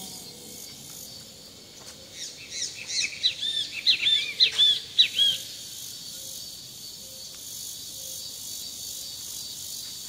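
A bird sings a quick run of arched, chirping notes for about three seconds, starting about two seconds in, over a steady high drone of insects.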